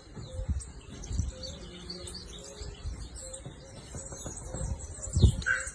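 Many birds chirping and twittering continuously in high, short notes, over low thumps, with one louder thump about five seconds in.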